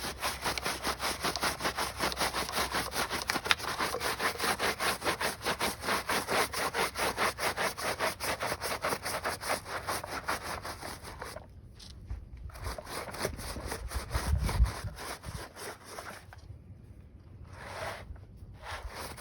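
Stiff brush scrubbing soapy rubber car floor mats in quick back-and-forth strokes, with two short pauses.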